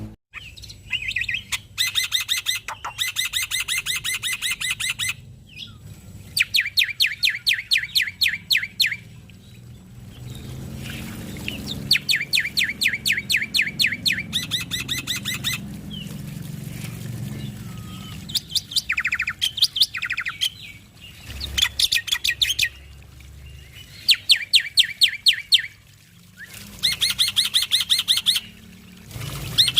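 Male black-winged starling (jalak putih) singing: phrase after phrase of fast-repeated high notes, each phrase lasting one to three seconds, with short pauses between.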